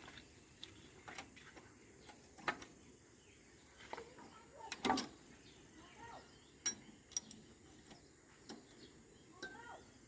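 Scattered light clicks and knocks, irregular and a second or so apart, the loudest about two and a half and five seconds in, with a few short chirps.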